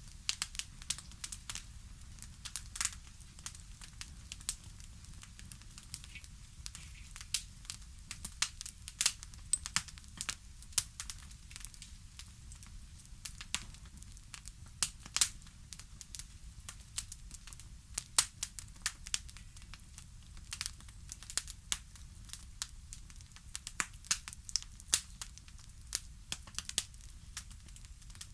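Wood fire crackling, with sharp, irregular pops and snaps over a low steady rumble.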